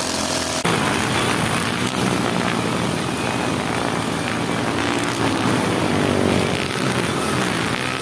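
Brush cutter engine running steadily, spinning its nylon trimmer line, with an abrupt change in the sound about half a second in.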